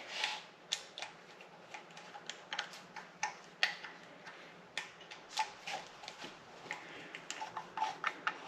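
Irregular small metallic clicks and taps as bolts are handled and threaded finger tight into the camshaft cap of a Subaru EJ25 cylinder head.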